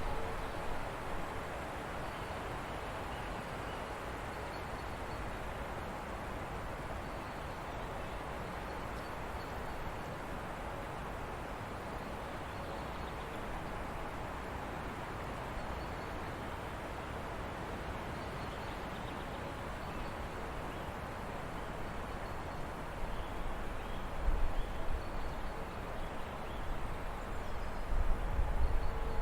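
Forest stream flowing steadily, with faint bird chirps scattered over the rush of water and some low rumbles in the last few seconds.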